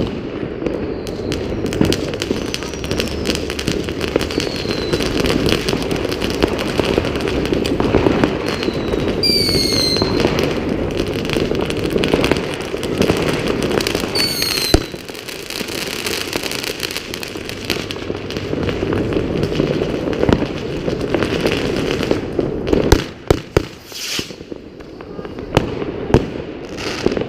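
Many New Year's Eve fireworks and firecrackers going off at once: a continuous rattle of bangs and crackles, with a couple of high whistles, about a third of the way in and about halfway through.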